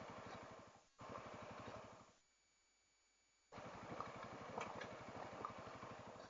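Honda CRF300L's single-cylinder engine running, heard faintly as an even, fast pulsing through a helmet intercom microphone, with a few light ticks; the sound cuts out completely for over a second midway.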